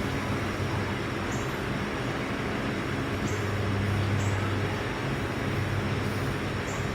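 An engine running steadily with a low hum that swells slightly partway through, with a few faint light ticks.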